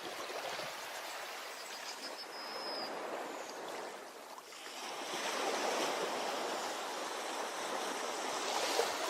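Ocean waves washing onto a beach in a steady hiss of surf. A wave surges in, eases off just under halfway through, then a bigger wave builds and runs on louder.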